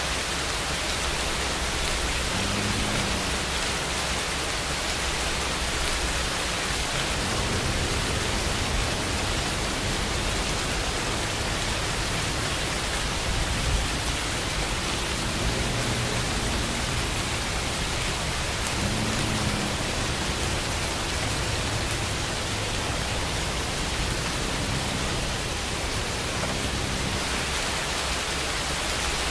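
Steady rain, an even unbroken hiss at a constant level.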